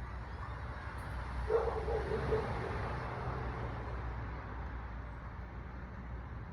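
A dog barking: a quick run of four or five short barks about a second and a half in, over a low steady rumble.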